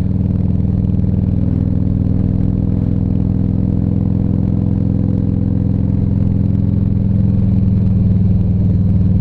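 Harley-Davidson Ultra Classic Electric Glide's V-twin engine running steadily while riding along an open road, heard from the rider's seat.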